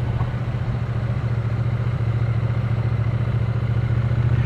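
Triumph Speed Twin 900's parallel-twin engine running at low road speed, a steady low exhaust note that gets a little louder near the end.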